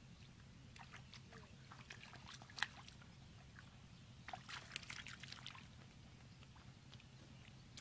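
Faint wet squelches and small clicks of hands digging in soft mud and gripping an eel. They come in two bunches, with one sharp click about two and a half seconds in, over a low steady hum.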